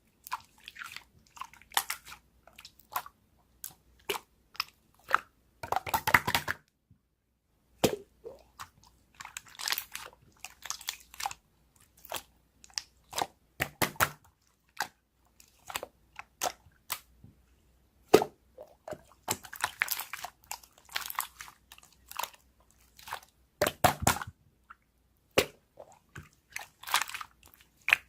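Slime being squeezed, poked and pressed by hand, giving irregular clicks, pops and short bursts in uneven clusters.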